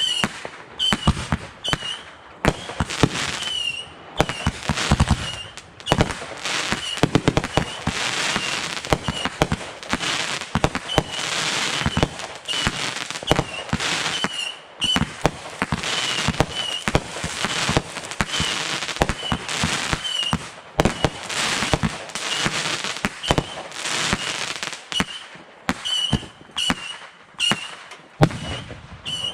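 Fireworks going off in a dense, continuous barrage: many sharp bangs overlapping with crackling.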